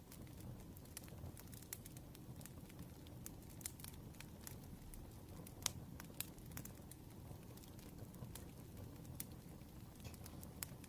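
Wood fire crackling: irregular sharp pops and snaps over a low steady rumble, with the loudest pop about halfway through.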